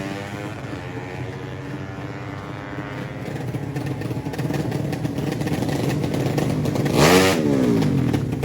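Racing underbone motorcycle engines running hard, fading and then building again, until one bike passes close about seven seconds in, loudest there, its pitch dropping as it goes by.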